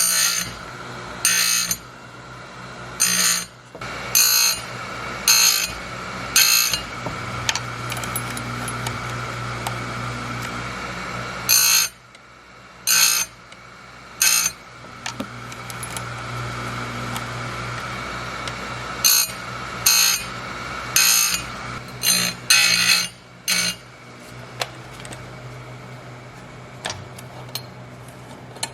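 Electric chainsaw-chain grinder running with a steady hum, its wheel biting into the cutters in short harsh bursts about once a second, in three runs with pauses between: sharpening a dull chain whose teeth are chipped.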